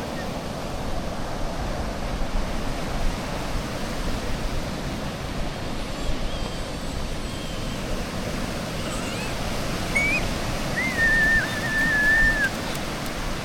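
Sea waves washing steadily on the shore. Near the end comes one high, thin, whistle-like call that wavers in pitch, with a few fainter short ones before it.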